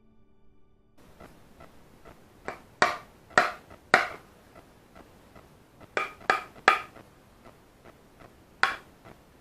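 Hammer tapping on a Japanese hand plane (kanna) to set its blade: sharp, briefly ringing knocks, three close together, then another three, then a single one.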